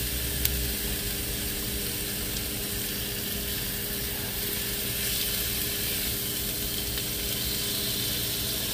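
Meat sizzling steadily in a frying pan, with a faint electrical hum under it.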